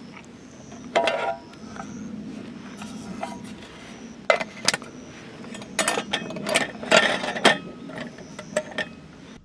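Metal camp cookware and utensils clinking and knocking: about ten short clatters, one about a second in and most of the rest bunched in the second half.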